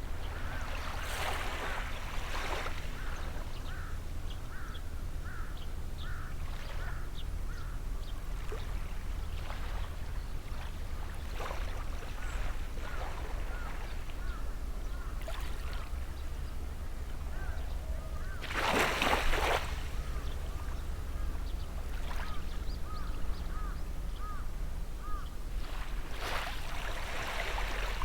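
Gentle sea waves washing on the shore, the loudest wash about two-thirds of the way through. A bird repeats a short chirping call about twice a second at the start and again later on, over a steady low rumble.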